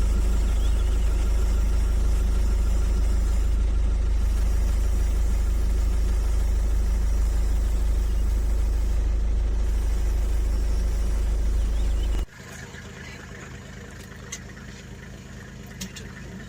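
A motor vehicle's engine idling steadily with a heavy low rumble. About twelve seconds in it cuts off abruptly to a quieter idling engine with a few faint clicks.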